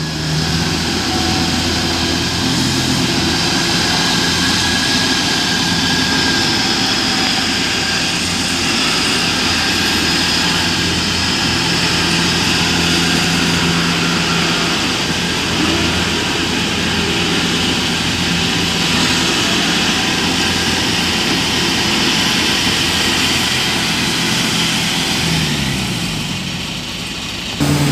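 Combine harvester diesel engines running steadily: a continuous drone with a higher whine above it, the engine note shifting briefly near the end.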